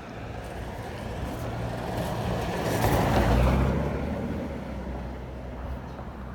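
Road vehicle noise over a steady low engine hum, with a broad rushing sound that swells to a peak about three seconds in and then fades, like a vehicle passing close by.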